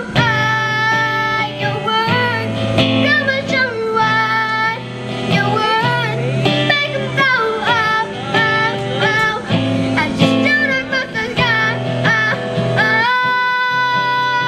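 A young female singer sings a pop song over instrumental accompaniment with guitar and a steady bass line, ending on a long held note.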